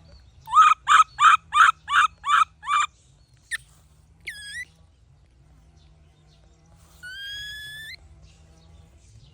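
A young monkey crying out: a run of eight short, high-pitched cries at about three a second, then a brief swooping whistle-like call, and near the end one longer call that rises in pitch.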